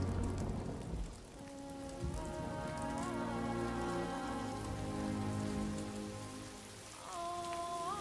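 Rain falling, mixed with soft background music: a sustained, slowly gliding melody line over held chords that comes in about a second in.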